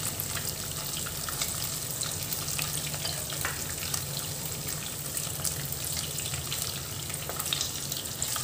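Paneer cubes shallow-frying in hot oil in a kadai: a steady sizzle with scattered small crackles.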